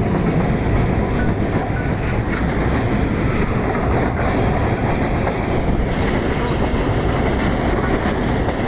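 Chennai MRTS electric multiple unit (EMU) suburban train running along the track, a steady rumble of wheels on rails heard from on board.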